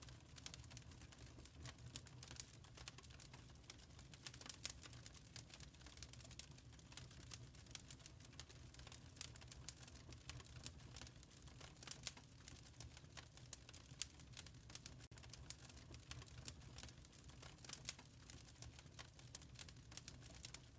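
Wood fire crackling in a fireplace: faint, irregular sharp pops and snaps over a soft, steady low rumble.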